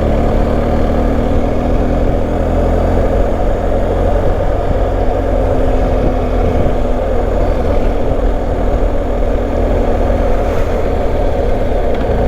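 BMW R1250 adventure bike's boxer-twin engine running at a steady riding pace, under a continuous rush of wind and road noise.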